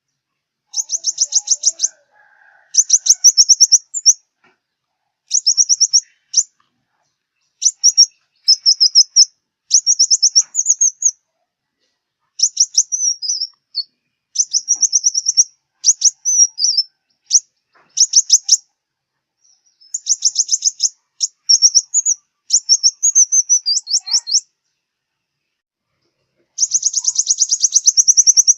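Sunbird song: a series of rapid, high-pitched trilled phrases, each a second or two long, separated by short pauses, with a few descending chips mixed in.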